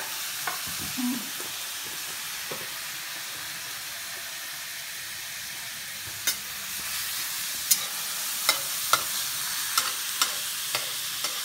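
Chopped red onions sizzling steadily in hot mustard oil in a steel pan, with a run of sharp clicks and taps from about six seconds in.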